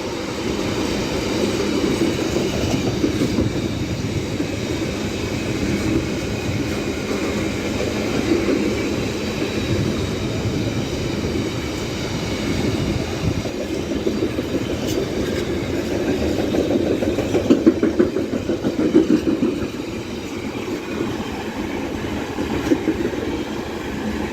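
A Class 66-hauled container freight train passing, its wagons rumbling steadily with clickety-clack over the rail joints and sharper knocks in the second half.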